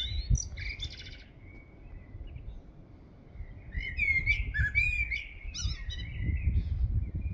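Small birds chirping and calling in repeated short phrases with quick trills and slides in pitch, quieter for a couple of seconds in the middle, over a low steady rumble.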